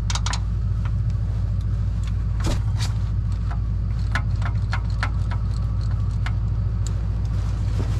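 Engine idling steadily, with scattered sharp metallic clicks and clinks of hand tools being worked on the truck's underside.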